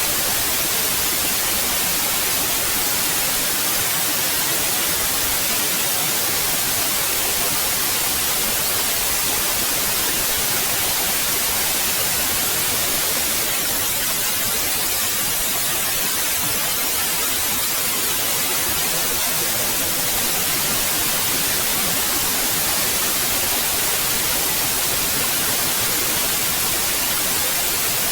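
Steady white noise: an even hiss across all pitches, strongest in the highs, with no change or events.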